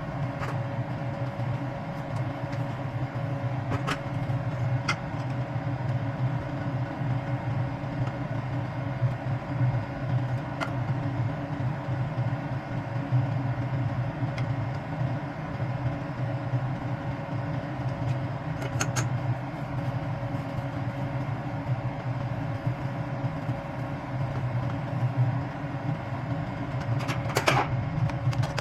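A steady machine hum with a few short, light clicks or clinks scattered through it.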